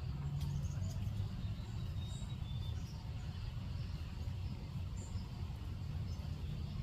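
Steady low rumble of outdoor background noise, with a few faint, short, high bird calls and ticks scattered through it.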